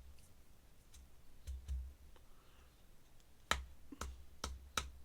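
A few sharp clicks and light taps of drawing tools being handled on a desk, four of them in quick succession in the second half.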